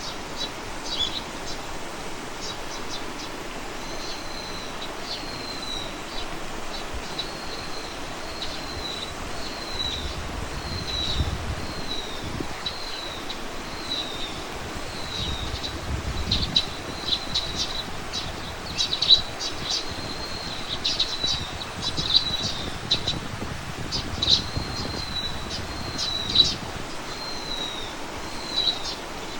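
A small bird calling outdoors, repeating a short high note that falls in pitch about once a second, joined by sharper, quicker chips in the second half, over a steady hiss of background noise.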